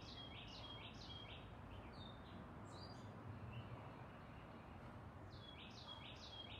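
Faint songbird chirping outdoors: a quick run of short, high, down-slurred notes, about three a second, then a pause and another run near the end.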